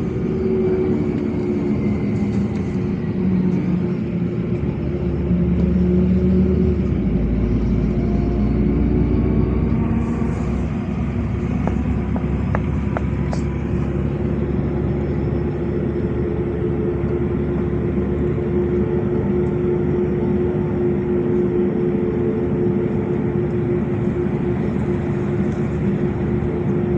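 LiAZ 5292.65 city bus under way, heard from inside the passenger cabin: the engine and drivetrain run with a low rumble and a steady hum over tyre and road noise. The rumble swells about five seconds in, and a few short clicks or rattles come about halfway through.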